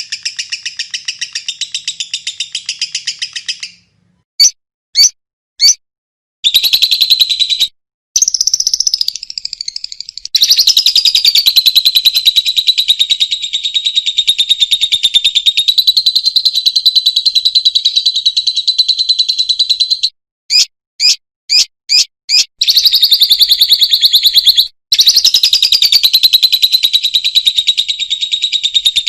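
Lovebird calling: long stretches of very fast, high-pitched rattling chatter, the long trilling 'ngekek' call. Twice it breaks off into a few short separate chirps, three about four seconds in and five about twenty seconds in.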